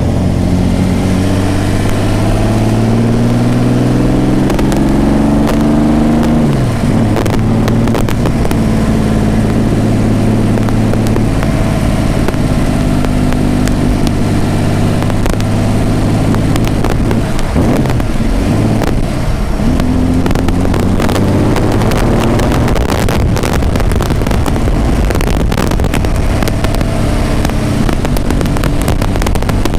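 The Cobra's V12 marine racing engine, rated around 1000 hp, running while the car drives. Its pitch rises for the first six seconds or so, drops sharply, then holds roughly steady. A spatter of sharp pops and clicks comes in over the last several seconds.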